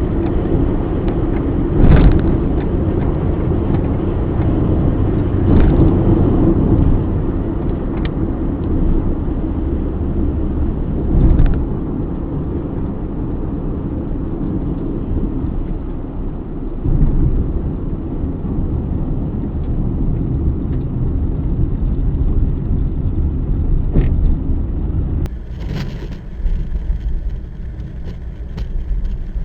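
A bus engine running with a low rumble as the bus moves over rough ground, broken by several loud thumps spread through the clip. The sound changes abruptly near the end.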